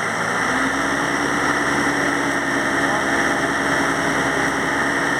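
Chevrolet Tavera's engine being raced during an engine carbon-cleaning treatment: the revs pick up just after the start and then hold steady at a raised, loud running speed.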